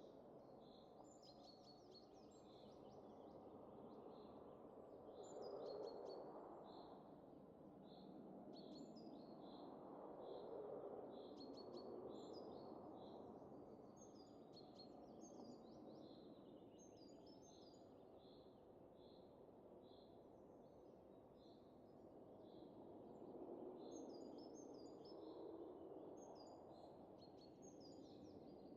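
Faint wind rising and falling in slow gusts, with small birds chirping high and repeatedly over it.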